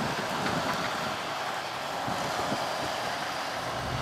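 Freight train rolling past, a steady, even noise of wheels and cars on the rails.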